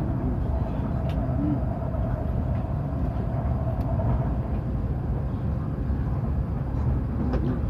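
Shinkansen (E7/W7 series) running at speed, heard inside the passenger cabin: a steady low rumble with a constant hum and a few faint ticks.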